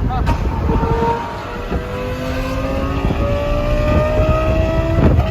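Lamborghini Gallardo Superleggera's V10 with aftermarket exhaust, heard from inside the car, pulling on the highway. It eases off about a second and a half in, then its pitch rises slowly and steadily as the car gains speed. A sharp knock comes near the end.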